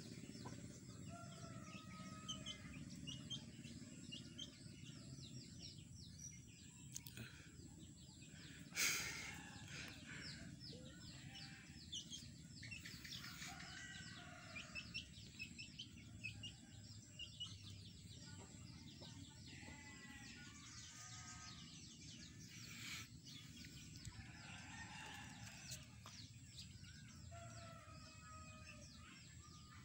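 Faint, rapid high-pitched chirping and peeping from a small bird, over a steady low background rumble. One sharp knock about nine seconds in.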